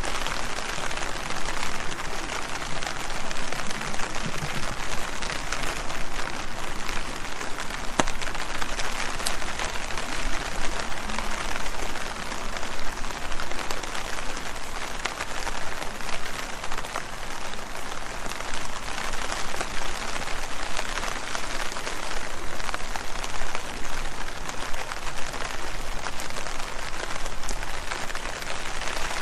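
Steady rain falling on leaves, a dense patter of drops with occasional sharper single drop hits.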